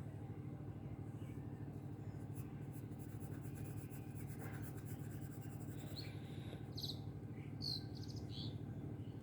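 Rapid scratchy strokes of a colouring stick on paper as the tail feathers are put in, over a steady low hum, with a few short high chirps near the end.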